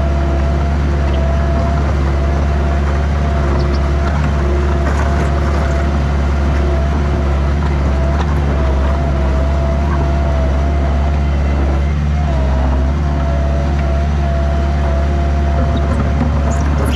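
A heavy engine running steadily under constant load, with a thin whine that wavers slightly in pitch over a deep rumble.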